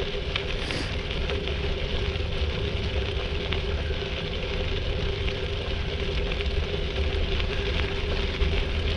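Bicycle riding along a trail: the tyres roll with a steady crackling hiss over a low rumble, and a steady hum runs underneath.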